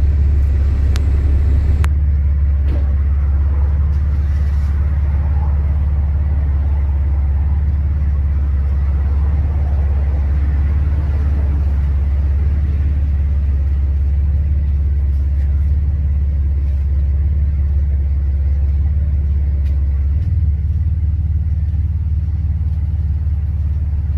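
Semi-truck tractor's diesel engine running with a steady low rumble.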